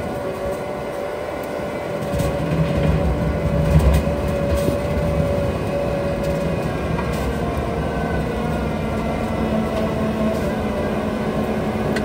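Bobcat T86 tracked skid steer with a Coneteks forestry rotor head working the ground: the diesel engine and hydraulically driven rotor run steadily under load. A heavier low rumble comes in about two seconds in.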